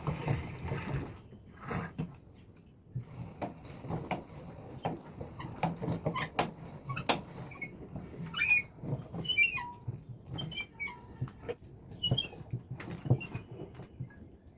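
Irregular clicks, scrapes and short high squeaks from the mixer grinder's jar and the soap in it being handled, with the motor not running; the squeaks come in a cluster in the second half.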